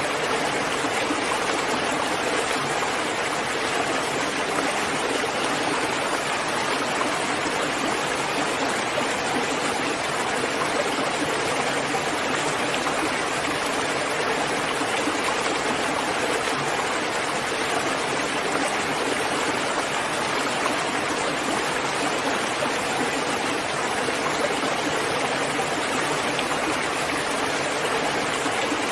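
Steady, even rainfall, a continuous wash of rain noise with no distinct drops or pauses.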